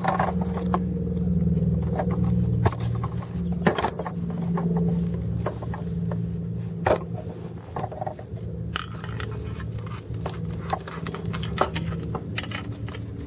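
Car engine idling steadily, with scattered clicks and taps over it.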